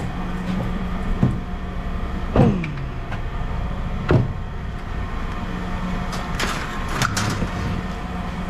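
Scrap metal being handled: three separate knocks in the first half, one of them followed by a falling ringing tone, then a quick cluster of clanks later on, all over a steady low hum.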